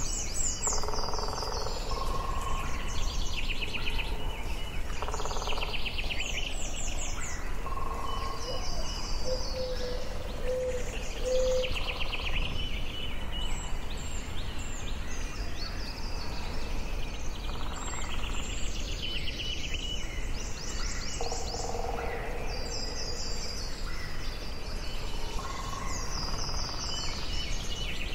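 Forest ambience: several birds singing and calling throughout, with quick high trills and chirps and some lower repeated notes, over a steady low background noise.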